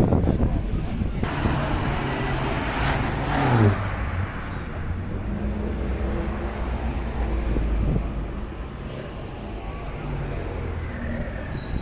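Cars driving past on a road. One passes close about three and a half seconds in, its engine note loud and falling in pitch as it goes by, and another passes near eight seconds.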